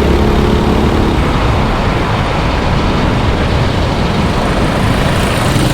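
Racing engines running on the circuit as a steady wash of engine noise. One engine's note passes and fades about a second in.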